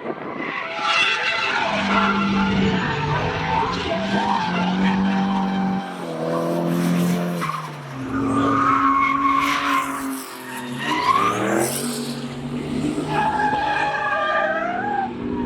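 Drift car engine revving up and down several times as the car slides, with tyres squealing.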